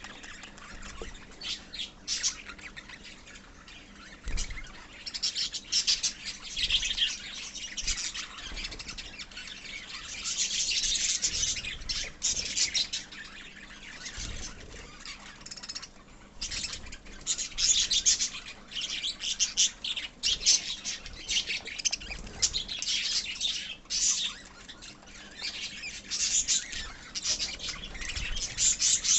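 A colony of pet lovebirds chirping: many short, high calls overlapping without a break, getting louder in stretches.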